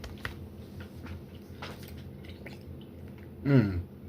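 Chewing and mouth noises from a person eating a forkful of cheese curds and gravy: faint wet clicks and smacks, then a short, loud hummed voice sound about three and a half seconds in.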